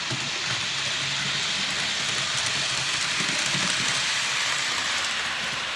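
Hornby OO gauge HST model trains running round the track: a steady whirring hiss of the small electric motors and wheels on the rails.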